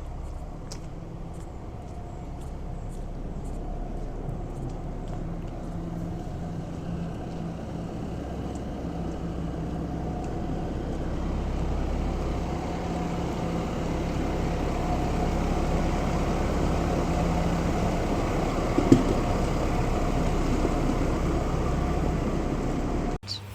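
Tractor engine running steadily, its drone growing gradually louder, with one sharp click about nineteen seconds in.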